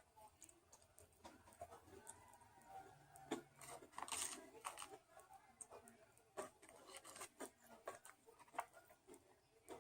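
Faint eating sounds: a person chewing fast food, with scattered small mouth clicks and a brief crinkle about four seconds in.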